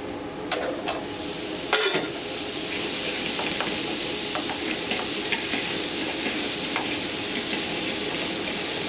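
Chicken and sausage frying in a skillet while being turned with metal tongs: a few clinks of the tongs on the pan in the first two seconds, then a steady, louder sizzle from about three seconds in.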